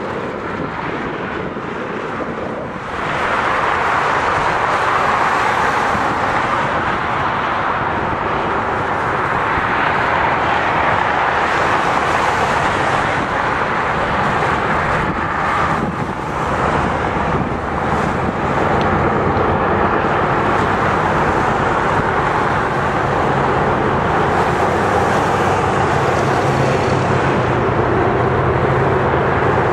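Diesel locomotives of a long freight train passing at a distance: a steady rumble with a low engine hum that grows stronger in the second half as the lead units draw nearer, under a constant rushing noise.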